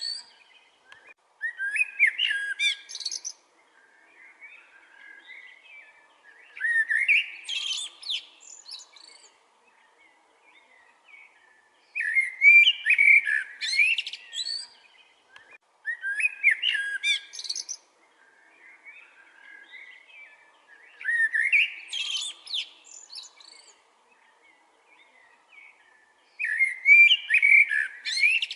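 A songbird singing: bright, twittering song phrases of two to three seconds each, repeated about every four to five seconds, with softer chirps in between.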